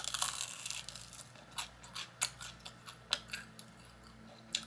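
Close-miked eating sounds: crunchy chewing for the first second, then a string of sharp mouth clicks and crunches about once a second.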